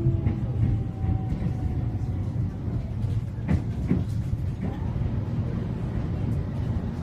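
Interior running noise of a Keio 8000 series electric train: a steady low rumble of wheels on rail, with a faint whine fading out in the first second and a couple of sharp clicks over rail joints a few seconds in.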